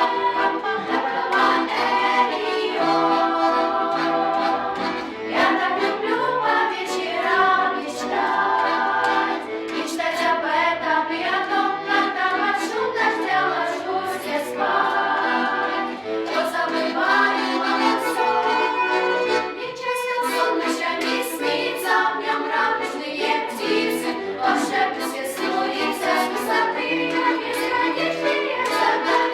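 Female vocal ensemble singing a pop song together over an accompaniment with a steady beat.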